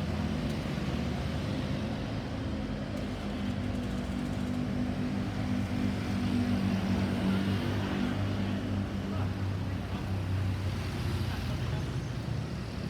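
Road traffic: a motor vehicle engine running with a steady low hum over general road noise, a little louder around the middle.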